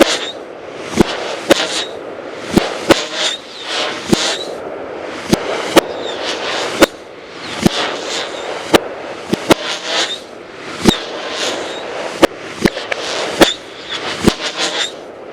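A 36-shot 500 g fireworks cake of whistling birds firing: sharp cracks come roughly every half second to a second, with hissing and whistling between the shots.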